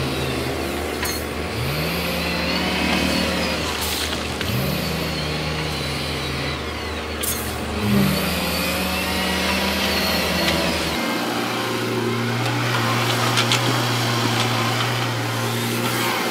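Heavy diesel earthmoving machinery working: an engine revs up and holds three times, a few seconds apart, with scattered knocks. About eleven seconds in, the sound changes to a steady engine drone.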